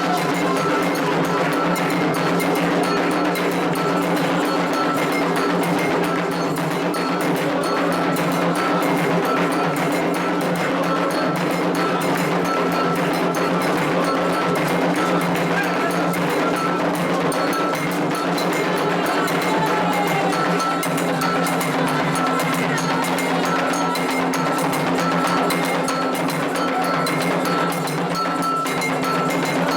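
Candomblé ritual percussion: atabaque hand drums and a struck iron bell playing a fast, steady rhythm, with a constant ringing metallic tone over it.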